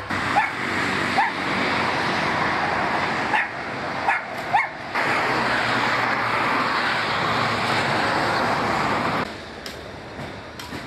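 A dog gives about five short, rising yips over a steady rushing noise, which cuts off abruptly about nine seconds in.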